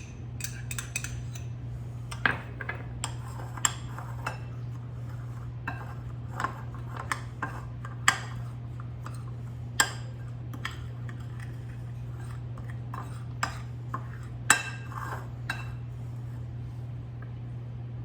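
A spoon clinking and scraping against a bowl at irregular intervals while stirring an oil-bound crumb topping, over a steady low hum.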